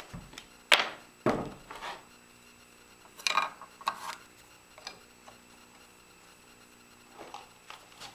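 Knocks and scrapes of wood being handled and set down on a work surface: a sharp knock under a second in, a few more clatters a few seconds later and another near the end, with quiet between them.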